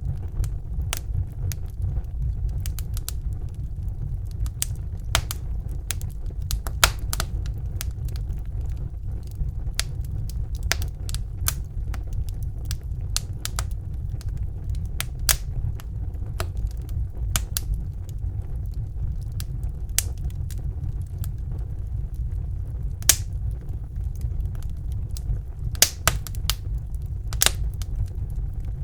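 Wood fire burning in a fireplace, crackling with irregular sharp pops over a steady low rumble. A few pops stand out louder, about seven seconds in and again near the end.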